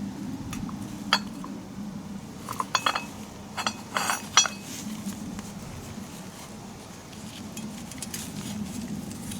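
Metal tools and parts clinking and tapping against each other: a single sharp clink about a second in, then a cluster of clinks with short ringing between the third and fifth seconds, over a steady low hum.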